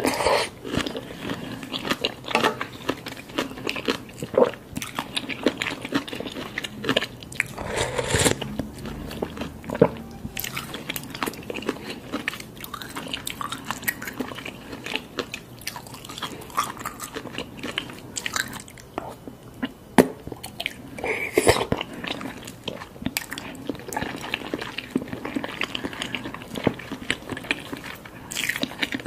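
A person biting and chewing noodles and soft-boiled eggs in spicy soup, with frequent small mouth clicks and smacks and a few louder bursts of eating noise.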